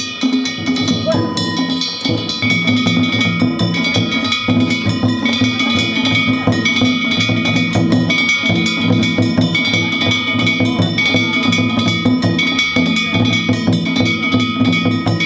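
Danjiri-bayashi float music: taiko drums beaten in a fast, continuous rhythm with small hand-held gongs (kane) clanging and ringing over them.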